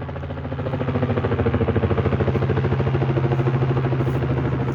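Helicopter flying overhead: a rapid, even thudding of the rotor blades over a steady engine hum, getting louder over the first second.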